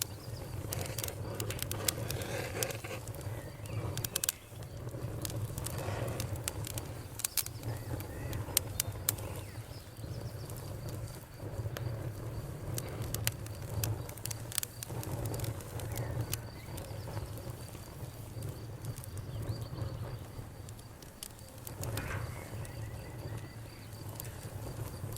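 Campfire crackling, with frequent sharp pops and snaps over a low, steady rumble of the flames. A cricket's steady high trill runs underneath, clearer from about ten seconds in.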